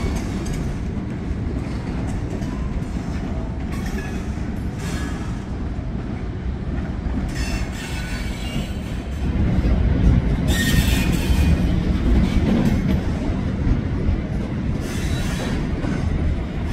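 Freight cars of a slow-moving Juniata Valley Railroad local train rolling past with a steady low rumble. A few times the wheels give brief high-pitched squeals, and the train gets louder from about halfway through.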